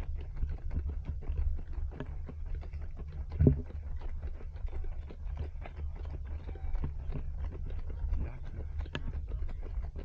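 Running footsteps and the knocking and rubbing of a small body-worn action camera as its wearer runs, over a steady low rumble, with one louder knock about three and a half seconds in.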